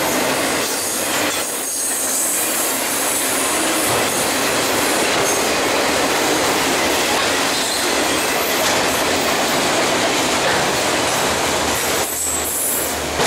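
BNSF double-stack freight train with autorack cars rolling past, its steel wheels running steadily on the rails.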